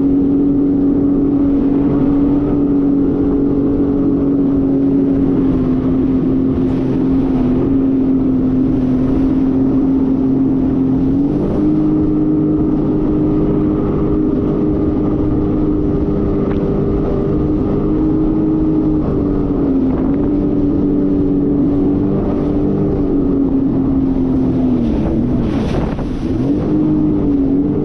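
Jet ski engine running steadily at speed. Its pitch steps up partway through and dips briefly twice in the second half before coming back up.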